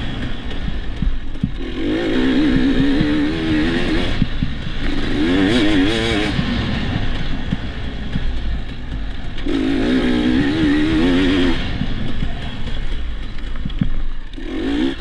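Dirt bike engine running under a rider's throttle, rising to three strong revving surges with wavering pitch. Frequent short clattering knocks come from the bike over rough ground.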